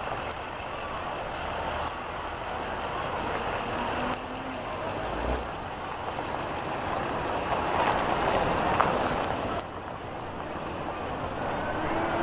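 Steady noise of vehicle engines running, growing somewhat louder toward the end, with a brief low thud about five seconds in.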